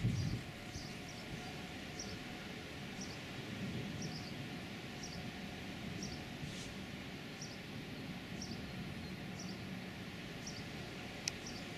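A bird repeating a short, high chirp about every half second over a steady low rumble of outdoor background noise, with a brief low rumble right at the start and a single sharp click near the end.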